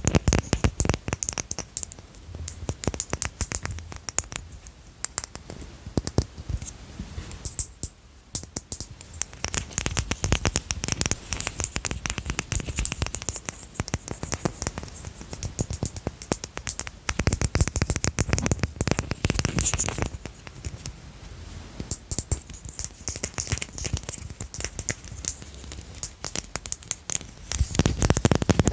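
Fingernails rapidly tapping and scratching on small hard objects held close to the microphone: a dense patter of little clicks with a few busier stretches.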